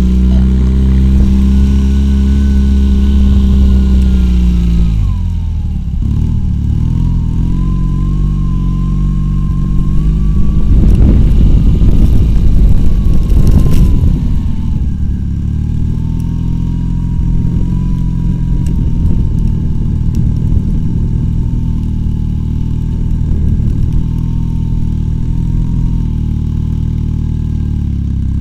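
Homemade ATV's two-cylinder Lada Oka engine running hard under load: the revs are held high, then drop about five seconds in. It gets louder and rougher for a few seconds in the middle before settling to a steady pull, with a thin whine rising and falling with the engine.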